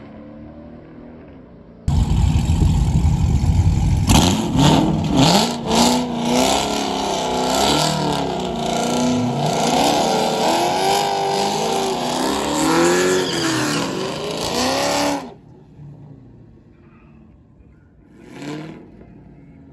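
Muscle-car engines, a Dodge Charger and a Chevrolet Camaro at a drag strip starting line, revving up and down again and again. The loud engine sound cuts in suddenly about two seconds in and cuts off near the end.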